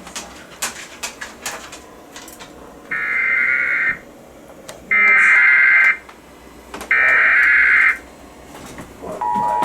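NOAA Weather Radio Emergency Alert System header: three one-second bursts of warbling digital data tones, about a second apart, after a few faint clicks. Near the end the steady two-tone EAS attention signal starts, announcing an incoming alert, here a special marine warning.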